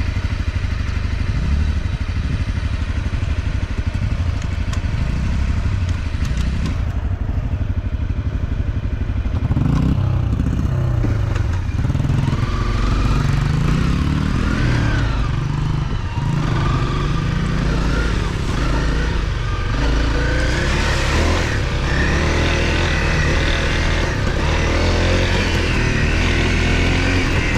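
Off-road motorcycle engine running close by under load as the bike rides up a dirt trail. It revs up and down repeatedly from about ten seconds in.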